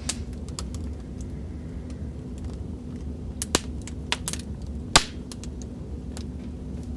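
Wood fire crackling: a steady low rumble with scattered sharp pops, the loudest about five seconds in.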